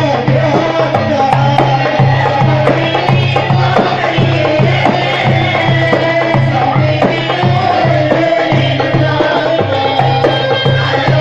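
Port Said simsimiyya folk music played by a band, with a steady drum beat under the melody.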